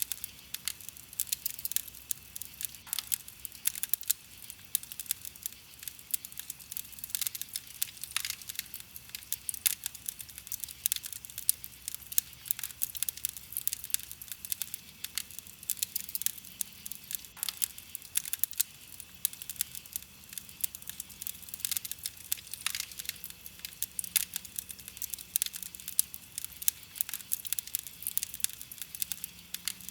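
Wood campfire crackling: a continuous run of irregular sharp pops and snaps, many each second.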